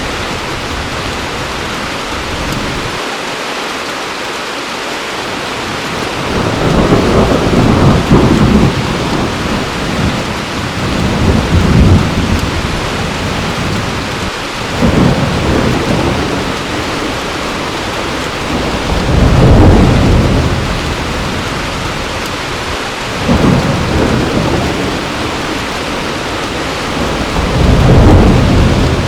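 Heavy steady rain with thunder rumbling in repeated low swells, about six of them, each rising and fading over a second or two.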